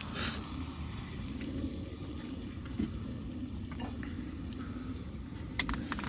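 Food sizzling in a pan over a camp stove, steady, with a few light clicks or knocks of utensils.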